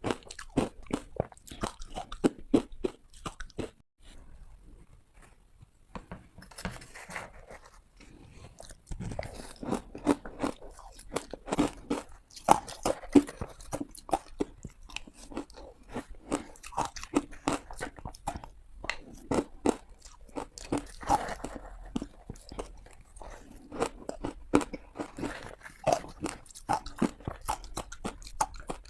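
Close-up bites and crunches of hard ice being chewed: rapid sharp cracking crunches, easing off for a few seconds about four seconds in, then biting and chewing again.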